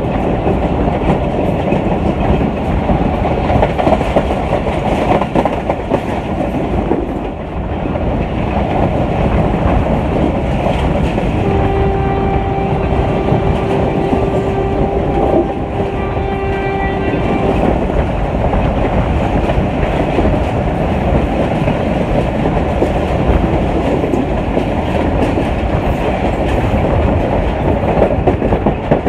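Passenger train running along the track, heard from inside a coach: a steady rumble with wheels clattering over rail joints. About a third of the way in, a train horn sounds one long steady blast of about six seconds.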